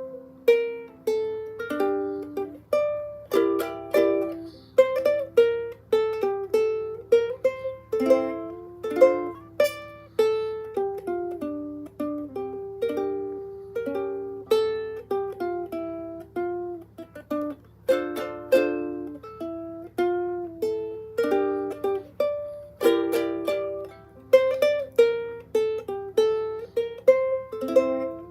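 ASTURIAS Solo ukulele of spruce and rosewood played solo: a melody of plucked single notes with chords struck now and then.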